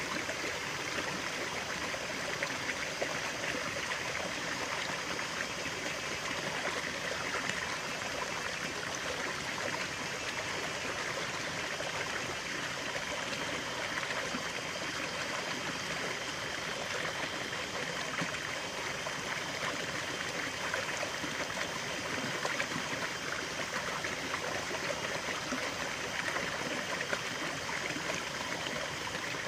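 Running water of a stream flowing and trickling steadily.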